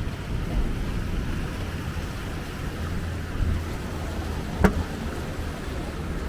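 Ride noise of a moving bus: a steady low engine and road rumble, with a sharp knock about two-thirds of the way through.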